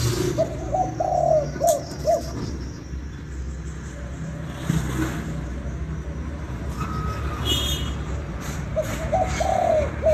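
Spotted dove cooing, two phrases of short notes with one drawn-out coo in each, one near the start and one near the end, over a steady low rumble.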